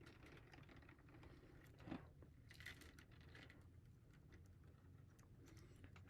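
Near silence with faint, scattered small clicks and crinkles of hands handling plastic 3D printer filament and PTFE tubing.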